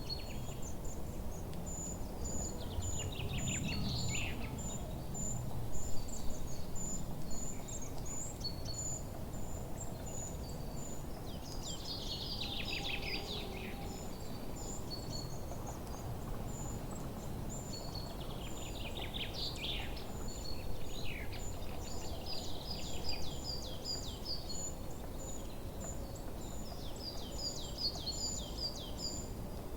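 Forest ambience: several birds singing in repeated bursts of downward-sweeping phrases, over a steady, thin high chirping that repeats several times a second and a steady low rumble of background noise.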